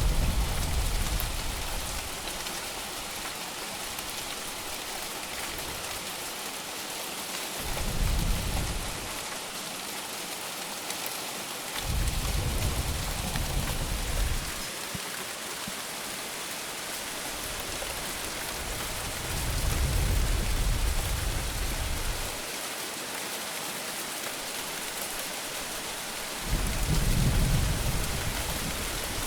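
Steady rain falling, with five low rumbles of thunder rolling in and fading over a few seconds each.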